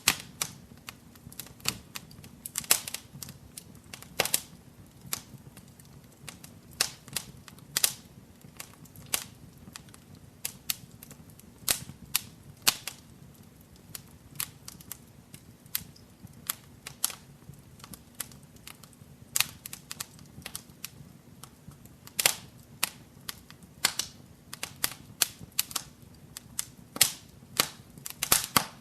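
Wood fire in a fireplace crackling: irregular sharp pops and snaps, sometimes in quick clusters, over a faint steady low rumble.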